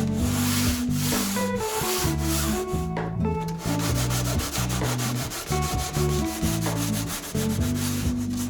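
Sanding on cured epoxy and fibreglass, a dense rasping hiss that turns into quick, regular back-and-forth strokes about halfway through, with a guitar song playing underneath.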